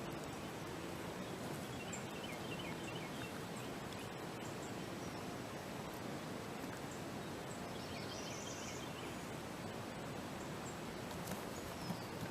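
Quiet woodland ambience with faint songbird calls twice, and a few soft clicks or rustles near the end.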